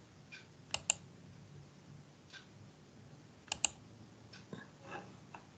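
Faint clicking of computer keys: two sharp clicks in quick succession about a second in, another such pair past the middle, and a few softer taps between.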